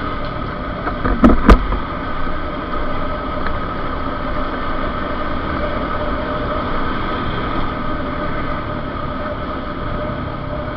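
Motorcycle engine running steadily while riding, with wind noise on the microphone. Two sharp knocks about a second and a half in.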